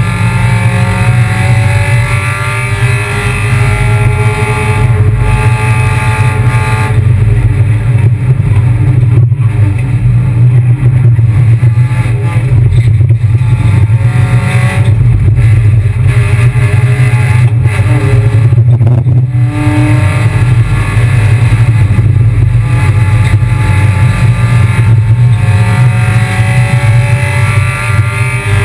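Kia Picanto race car engine running hard over a loud, steady low drone. Its pitch climbs for the first quarter, the sound turns rougher and less tuneful through the middle, and the pitch climbs again from about two-thirds through.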